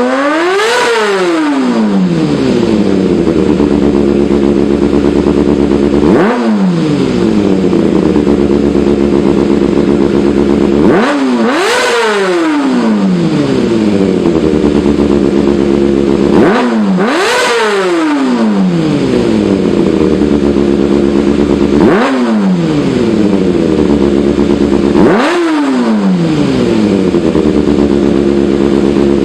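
Motorcycle fitted with an Austin Racing exhaust idling and being blipped repeatedly: about six quick revs, each rising sharply and dropping back to idle over a second or two, roughly every five seconds.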